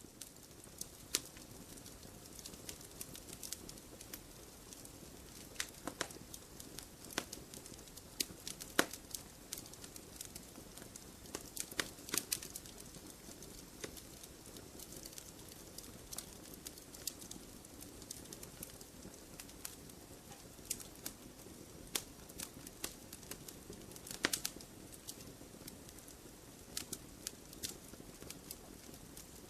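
Wood campfire burning: irregular sharp pops and crackles over a steady low rush of flame, with a few louder pops.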